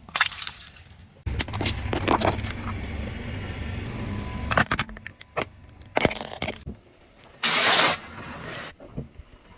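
A car rolling slowly over crunchy objects, its tyre crushing them: a low rumble with crackling and snapping, then a run of sharp cracks and a loud short burst of crunching noise near the end.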